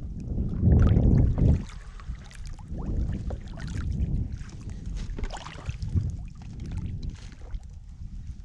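Small boat out on the water, with wind rumbling on the microphone in uneven gusts, loudest about a second in, and scattered splashes and knocks.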